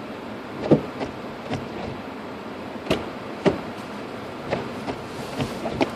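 2006 Lexus IS250 AWD driving on a snow-covered road, heard from inside the cabin: a steady rush of road noise broken by about eight sharp, irregular knocks and thumps, the loudest about a second in.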